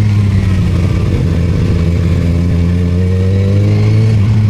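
Sportbike engine running under way, its pitch rising steadily as it accelerates through a gear, then dropping about four seconds in at an upshift. A heavy low wind rumble on the microphone runs underneath.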